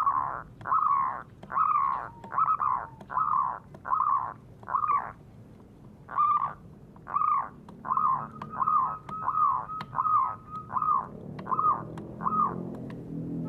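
A bird calling a long series of short, harsh, repeated notes, about two a second, with a pause of about a second midway.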